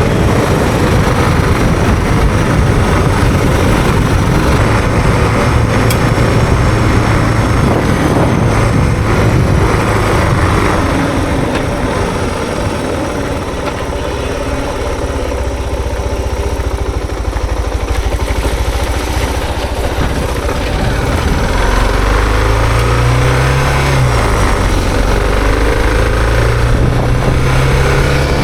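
Suzuki DR650's single-cylinder engine running while the bike is ridden, its pitch falling and rising with throttle changes in the last several seconds.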